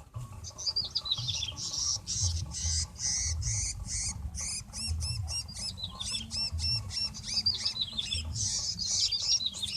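Small birds chirping in quick, continuous runs of high notes, several a second.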